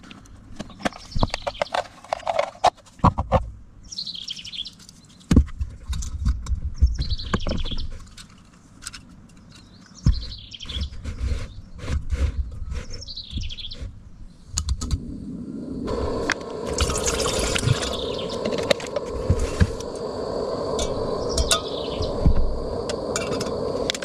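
A bird calling again and again, a short high call about every three seconds, over scattered clicks and knocks of things being handled. About fifteen seconds in, a steady rushing noise begins and carries on.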